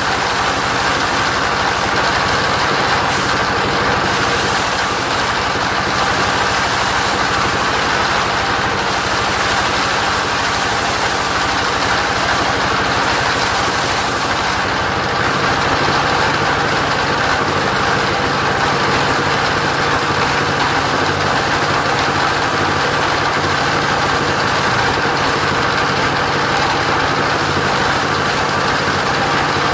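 Engine of a mobile sawmill running steadily, its note shifting slightly about halfway through.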